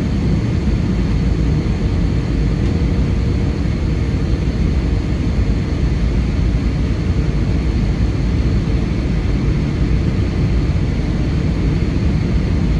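Steady cabin noise inside an Airbus A320 airliner: engine and airflow noise, a low rumble with a faint whine.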